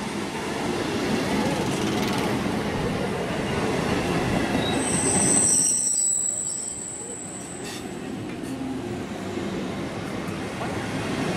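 Indian Railways local passenger train running on the rails with steady wheel and track rumble. About halfway through a high-pitched wheel squeal rings out for about two seconds.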